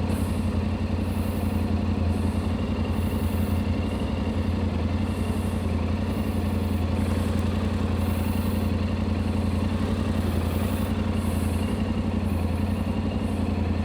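Motorcycle engine idling steadily, the bike standing still.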